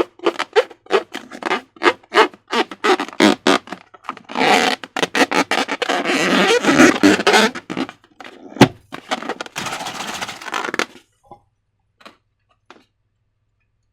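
Slime being squeezed and squished by hand: a fast run of short wet squelches, then longer continuous squelching, with one sharp snap a little past the middle. The squelching stops about three-quarters of the way through, leaving a few faint ticks.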